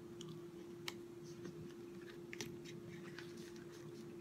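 A person chewing a mouthful of soft chicken enchilada: faint, scattered wet mouth clicks, the sharpest about a second in, over a steady low hum.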